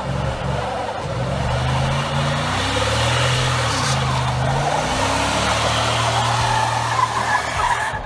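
A car engine running under way, its pitch rising and falling with the revs several times, under a steady rushing noise.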